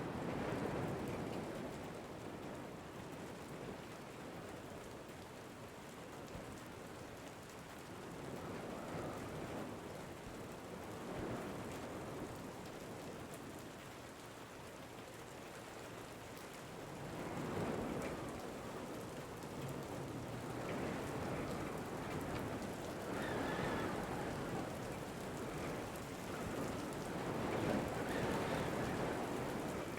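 Steady rain falling, swelling and easing every few seconds as the wind gusts.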